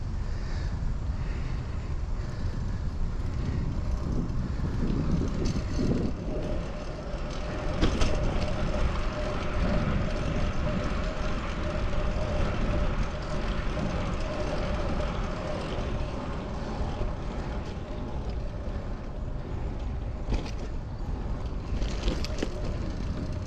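Street noise while riding a bicycle in city traffic: a steady low wind rumble on the microphone with road and traffic noise. A steady droning tone runs through the middle for several seconds, with a few sharp clicks.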